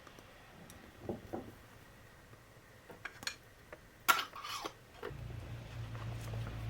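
Dishes and utensils being handled: a few soft knocks, then clicks and a sharp clink about four seconds in. A steady low hum starts about five seconds in and keeps going.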